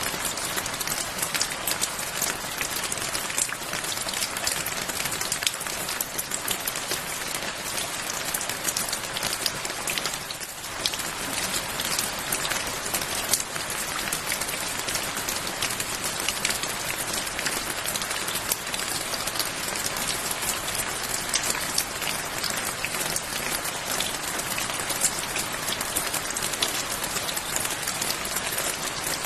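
Steady rain falling on a surface, a dense even patter with many individual drops ticking through it, easing briefly about ten seconds in.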